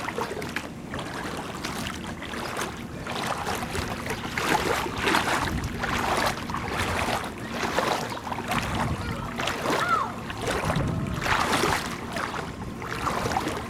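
Outdoor noise of standing floodwater running and lapping, with irregular gusts of wind on the microphone.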